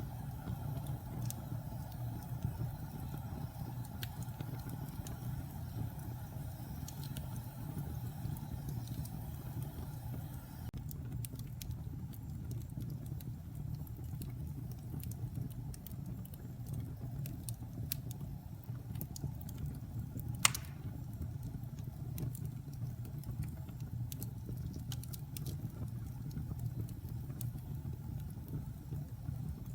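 Wood fire burning in a fireplace: a steady low rumble with scattered crackles, and one sharp, much louder pop about two-thirds of the way through.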